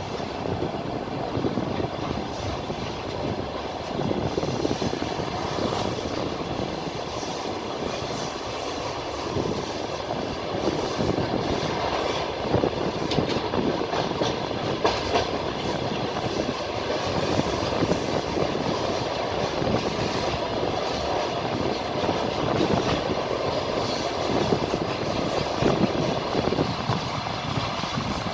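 Passenger train wheels clattering over rail joints, heard from inside a moving carriage: a steady rumbling ride noise with irregular sharp knocks.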